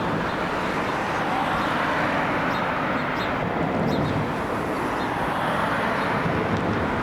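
Steady jet airliner engine noise, even in level without a clear swell or fade, with faint short high chirps scattered over it.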